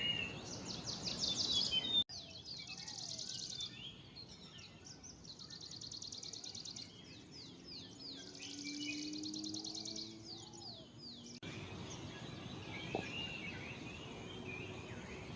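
Grey-breasted prinia singing: a run of rapid, high-pitched trilled phrases repeated with short pauses between them. After about eleven seconds the trills stop and only scattered softer chirps of other birds remain.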